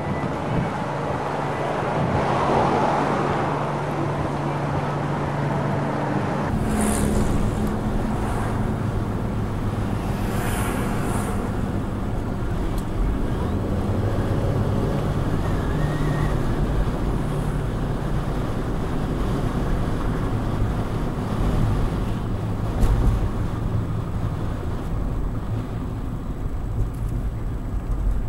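Car on the road: steady engine and tyre rumble. About six seconds in the sound changes suddenly to a deeper, heavier rumble.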